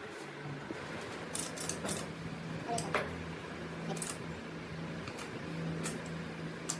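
Scattered light metallic clicks and taps from small metal parts being handled and fitted while a sewing machine's mechanism is assembled by hand, over a steady low hum.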